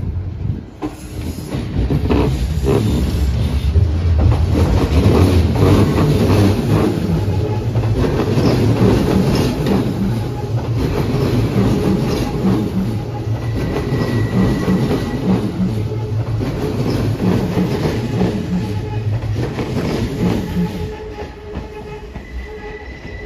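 Hanshin Railway electric train running past close by, its wheels clattering over rail joints and points. It is loud from about two seconds in until near the end, when it fades, with a brief high wheel squeal around the middle.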